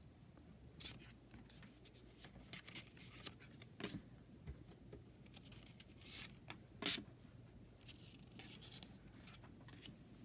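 Hands handling tarot cards and their packaging: faint, scattered rustles and light taps, the sharpest a little past the middle.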